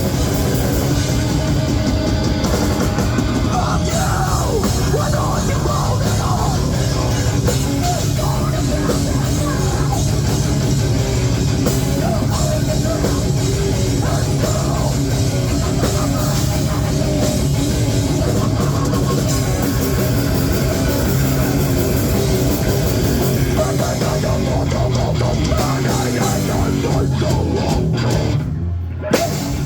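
Live heavy metal band playing loud and fast, with distorted guitars, bass, pounding drums and harsh shouted vocals, recorded on a phone in the crowd. The music cuts out briefly near the end and comes back in with a sharp hit.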